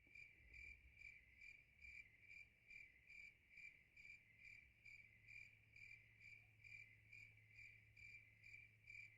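Faint cricket chirping: a steady high trill that pulses evenly about twice a second, over a low steady hum.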